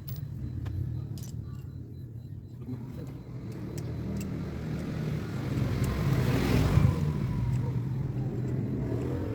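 Car engine running steadily, swelling louder for a moment about six to seven seconds in, with a few light clicks in the first seconds.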